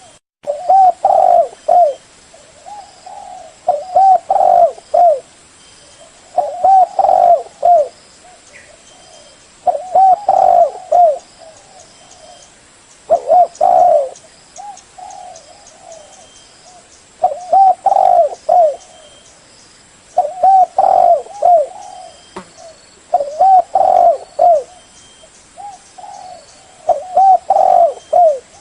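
Spotted dove cooing: a loud phrase of several short hooting coos, about a second long, repeated roughly every three seconds.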